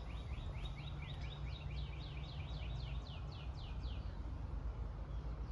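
A songbird singing a long, rapid series of repeated falling whistled notes, about four or five a second, that stops about four seconds in, over a steady low background rumble.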